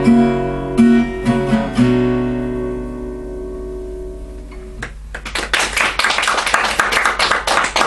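Acoustic guitar strums its closing chords, and the last chord rings out and fades away. About five seconds in, a small audience breaks into applause.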